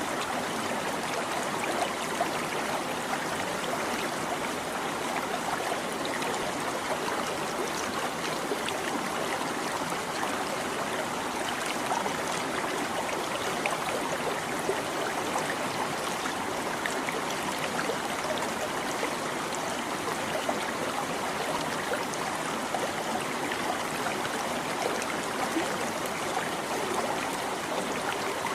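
A small stream babbling and trickling over stones, a steady, unchanging flow of water.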